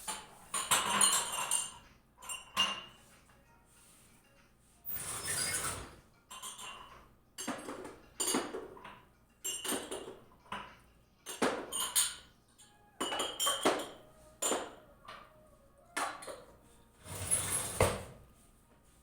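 Close-up eating sounds of raw eggplant: a dozen or so separate crunchy bites and chews, each lasting under a second, with short quiet gaps between them.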